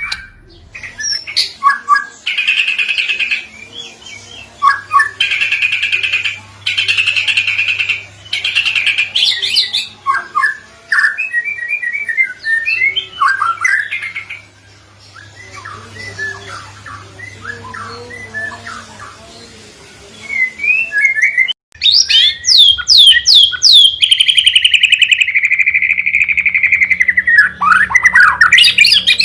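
White-rumped shama song from a recording: harsh, buzzy rattling phrases under a second long alternate with quick whistled notes. About 22 seconds in it switches abruptly to a louder passage of rapid falling whistles and a long buzzy trill sliding down in pitch, with a faint low hum beneath.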